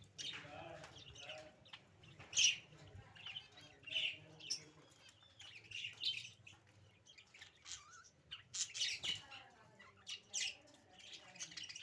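Pet budgerigars chirping and chattering in short, scattered high calls, loudest about two and a half seconds in and again around nine seconds.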